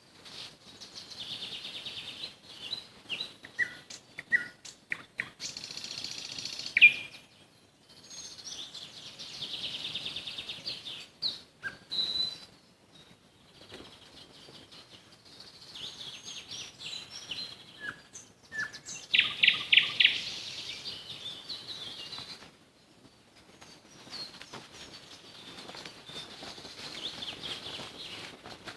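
Nightingale singing in separate phrases with short pauses between them. The phrases are made of rapid repeated notes, clicks and short whistles. The loudest phrase, a fast run of repeated notes, comes about two-thirds of the way through.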